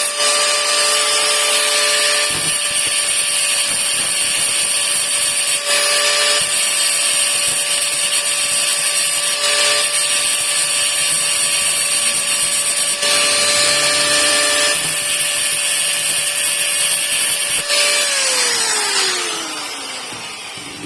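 Handheld power tool running at a steady high pitch, working the material in several stretches of a few seconds each. About eighteen seconds in it is switched off and winds down with a falling whine.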